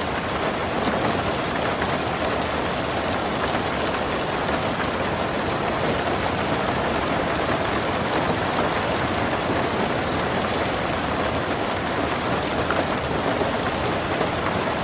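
Heavy rain falling in a steady downpour, an even hiss with scattered drop ticks.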